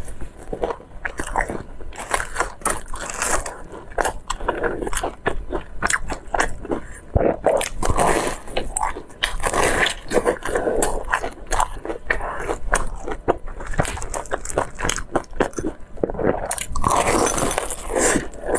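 Close-miked biting and chewing of a crumb-coated twisted fried bread, many small sharp crunches coming in irregular bursts.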